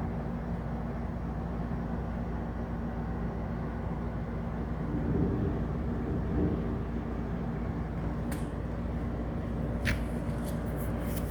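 Heavy rain pouring down, a steady rushing noise with a low hum beneath it and a few sharp ticks near the end.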